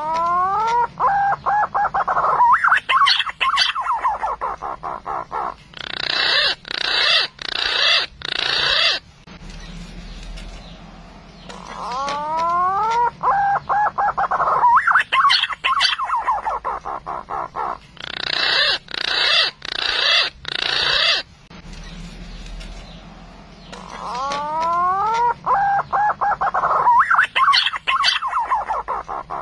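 Green pigeon (punai) calls played on a repeating loop as a hunting lure: rising whistles, a run of wavering whistled notes, then a harsher pulsed series, with the whole phrase coming round again about every twelve seconds.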